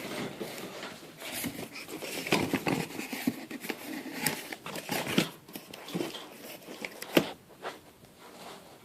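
Metal garage door hinges and hardware being handled and set in place: irregular clicks, light knocks and rustling, with one sharper knock about seven seconds in.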